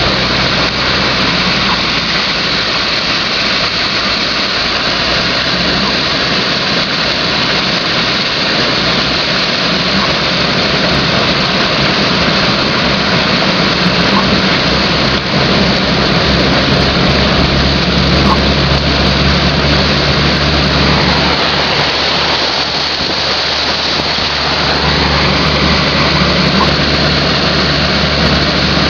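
Car driving through flooded streets in heavy rain: a steady rush of rain and water noise over the low hum of the engine.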